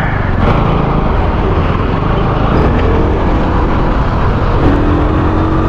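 Bajaj Pulsar NS200's single-cylinder engine and exhaust running steadily under way, with road and wind noise; a steadier, higher note comes in near the end.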